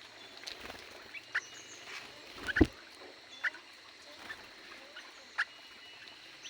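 Small aviary birds chirping in short, scattered calls, with one louder knock about two and a half seconds in.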